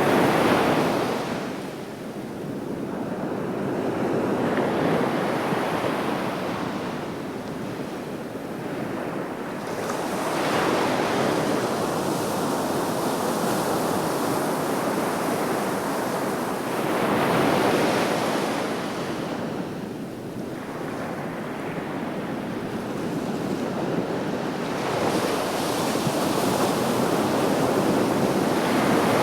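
Sea waves breaking on the beach and washing back in a continuous rushing surf. A new wave surges in about every seven or eight seconds.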